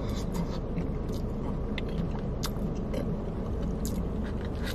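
Close-up chewing and mouth sounds with scattered small clicks, and a metal fork scraping food in a plastic takeout tray, over a steady low hum.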